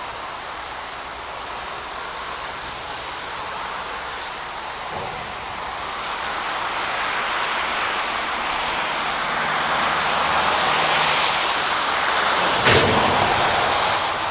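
Container freight train rolling past, a steady noise of wheels on rail that slowly grows louder, with a single sharp clank near the end.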